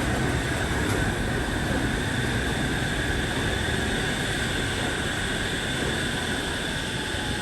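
Shonan Monorail suspended train running, its electric drive giving a steady high whine over a low rumble, with a fainter lower tone slowly falling near the end.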